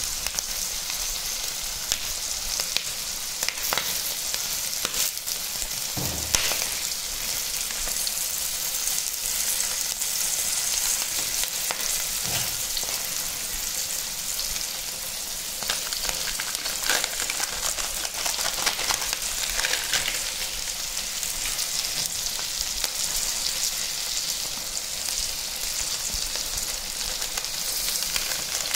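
Onion and green capsicum pieces sizzling in hot oil in a kadai: a steady frying hiss. A few light knocks, about 4, 6, 12, 17 and 20 seconds in, stand out above it.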